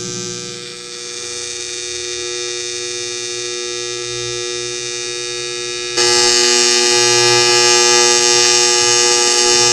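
AC TIG welding arc buzzing steadily at its 120 Hz AC frequency, with the current offset set 10% toward negative for a hotter arc. It gets louder about six seconds in.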